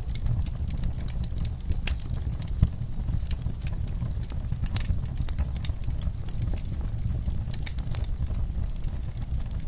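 Wood fire burning in a fireplace: a steady low rumble of flames with irregular sharp crackles and pops, one louder pop a little over two and a half seconds in.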